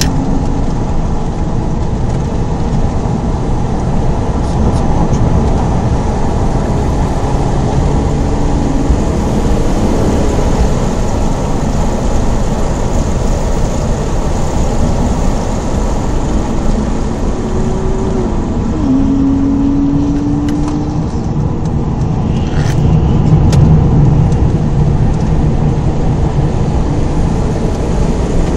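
Holden VT Commodore's 3.8-litre Ecotec V6 under load at track speed, heard from inside the cabin over tyre and wind noise. The engine note climbs and falls with the driving, with a sharp drop about two-thirds of the way through.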